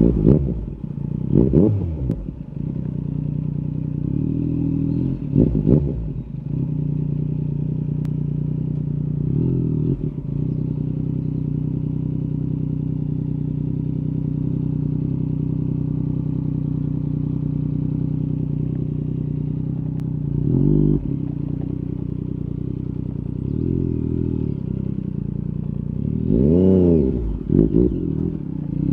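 Yamaha MT-09 SP's three-cylinder engine through an Akrapovic carbon Racing-Line exhaust, ridden at a steady throttle for long stretches. Brief revs rise and fall a few times, with a bigger rev and two quick blips near the end.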